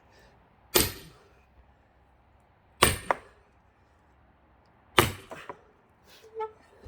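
Three heavy blows about two seconds apart driving into a thick pine log being split, the second and third each followed by a quick extra knock, then a fainter knock near the end.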